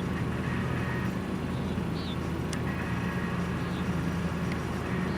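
A vehicle's steady engine and road hum, with a short high chirp about every two seconds.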